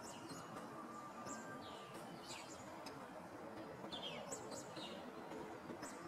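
Small songbirds calling faintly: short, high chirps, many of them falling in pitch, repeated every second or so over a soft outdoor hiss.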